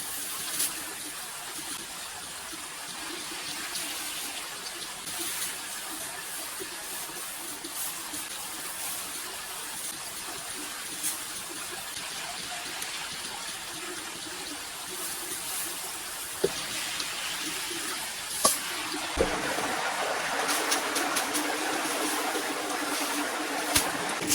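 Running, trickling water that grows louder about two thirds of the way through, with a few sharp knocks.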